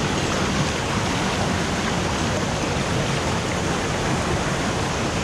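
Mountain stream rushing steadily, a loud, even wash of fast-flowing water.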